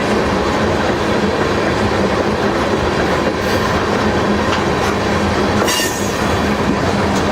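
Cars of a crude oil freight train rolling past with a steady, loud rumble of steel wheels on rail and occasional clicks over rail joints. A brief high wheel squeal comes about six seconds in.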